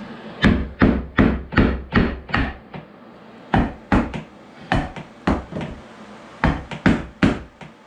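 A hammer striking wood in runs of blows, about two or three a second, with short pauses between runs.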